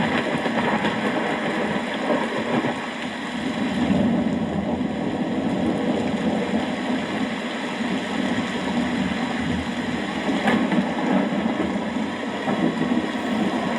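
Steady rain with a low, uneven rumble of distant thunder underneath.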